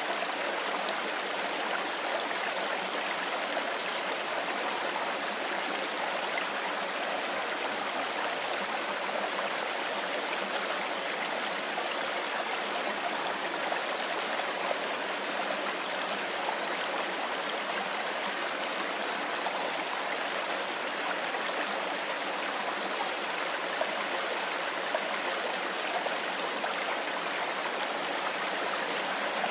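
Mountain river running steadily over stones, a continuous even rush of water without any breaks.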